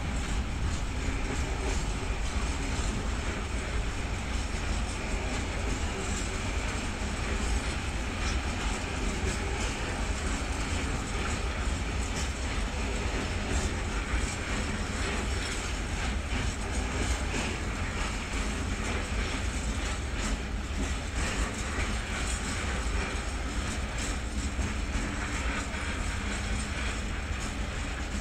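Freight train rolling past, a steady rumble with light clatter of the wagon wheels on the track.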